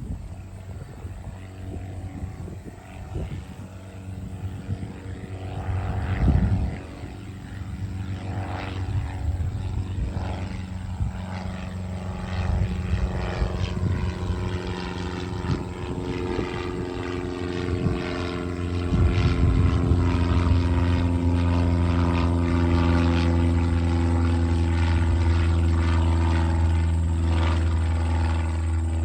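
Cessna 150L's four-cylinder Continental O-200 engine and propeller at takeoff power, a steady drone that grows louder as the plane draws closer and is loudest and steady over the last third. Brief gusts of wind noise on the microphone come in between.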